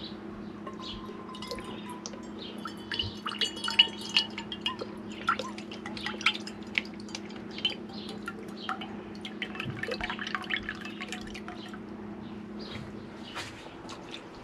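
Lemon juice dripping and trickling into a measuring cup as a scatter of small irregular drips and splashes, over a steady low hum.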